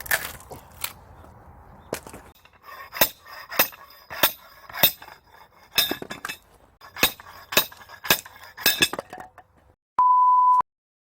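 Rapid metal-on-metal strikes with a ringing tone, about two a second, from splitting a tough firewood log with an axe. A short steady beep follows near the end.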